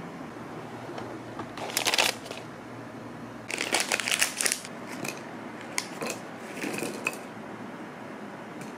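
Rustling, crinkling handling noises in two bursts, about two seconds in and again from three and a half to four and a half seconds, then a few light clicks, over a faint steady hum.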